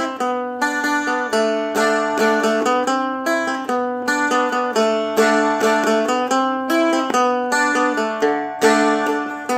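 Seagull Merlin M4, a four-string dulcimer-style fretted instrument, strummed in a steady rhythm, playing the repeated chorus chords.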